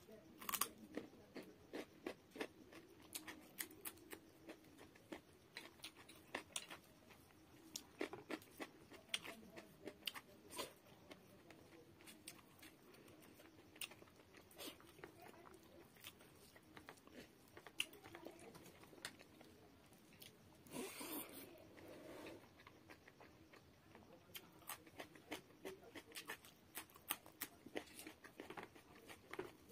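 Close-miked eating: a person chewing mouthfuls of rice and fish curry, with many short wet clicks and lip smacks, and crunching on raw carrot near the start. About two-thirds of the way through there is a longer, louder stretch of noise of a second or so.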